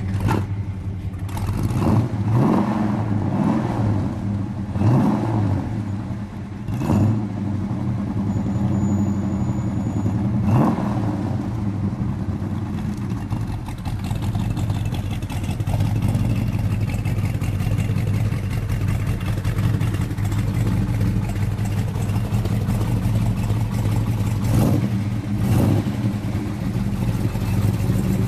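Car engine running, its revs rising several times in the first ten seconds or so, as when accelerating, then holding a steady drone.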